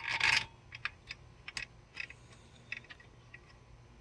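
A short clatter right at the start, then scattered light metallic clicks and taps as an alternator mounting bolt is started by hand.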